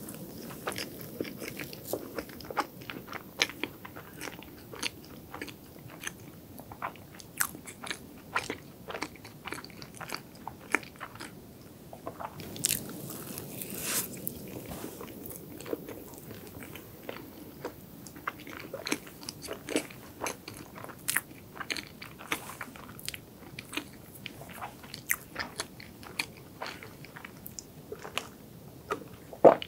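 Close-miked eating sounds: a mouth chewing soft dessert, with many small sharp wet clicks and smacks. Near the end comes a louder gulp from a chocolate latte.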